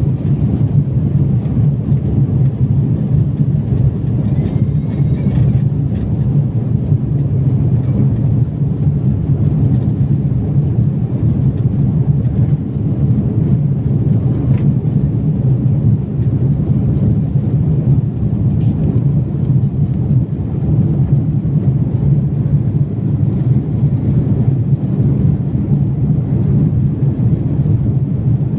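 Airliner cabin noise during takeoff and climb: a loud, steady low rumble of the jet engines and rushing air, heard from inside the cabin.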